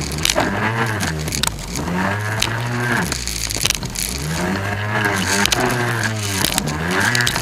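Jet ski engine revving up and down over and over, its pitch rising and falling every second or two, with scattered sharp knocks over a steady hiss.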